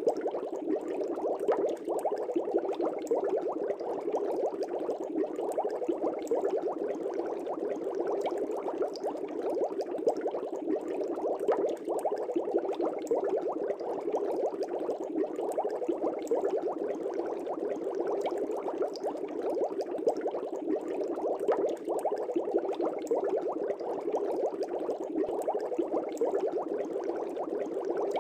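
Aquarium air bubbles streaming up through the water of a fish tank, a steady dense bubbling and gurgling with many small pops.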